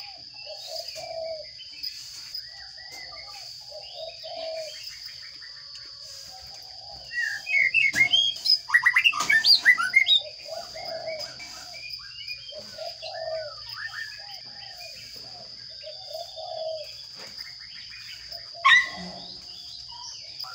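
Sparrows chirping at a nest box, with a burst of loud, rapid chirping about seven to ten seconds in, typical of nestlings begging as they are fed. Softer repeated calls go on around it over a steady high whine, and a sharp click comes near the end.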